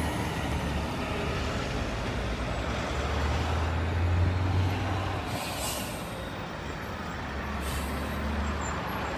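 Semi truck's diesel engine rumbling as it rolls slowly past, loudest about four seconds in, then easing. Two short hisses of its air brakes come about halfway through and again near the end.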